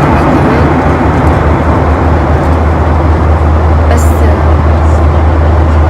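Airliner cabin noise in flight: a loud, steady drone with a strong low hum under rushing air.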